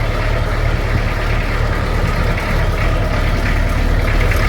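Fordson E27N tractor's Perkins P6 six-cylinder diesel engine idling steadily.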